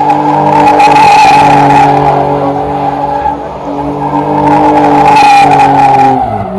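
BMW E30 doing a burnout: engine held at steady high revs with the tyres squealing, the revs dropping away near the end.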